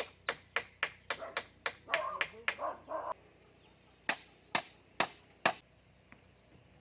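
A run of sharp knocks at about four a second, then a short pause and four slower knocks about half a second apart, like strikes of hand tools on wood or bamboo.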